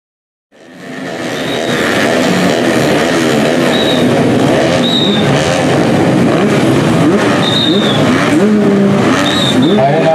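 Several 155cc trail motorcycle engines revving together, many overlapping pitches rising and falling. The sound fades in about half a second in and stays loud. Brief high chirps sound a few times over it.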